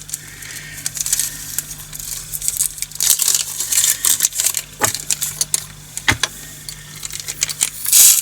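Tiny plastic resin diamond-painting drills rattling and trickling into a plastic storage container, with scattered clicks as the container and bag are handled; the rattle is loudest a few seconds in and again near the end.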